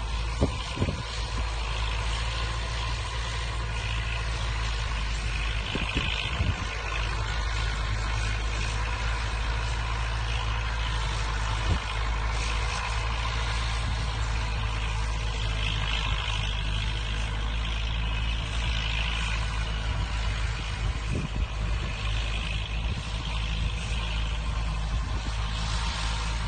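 Tractor engine running at a steady speed, with a few sharp knocks in the first second.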